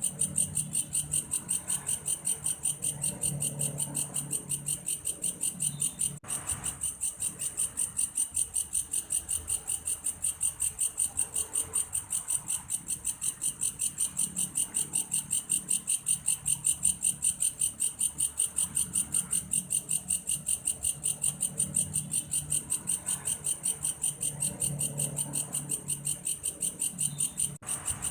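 A belalang kayu, a grasshopper with a cricket-like song, calling: a high-pitched pulsing chirp repeated steadily at about three to four pulses a second.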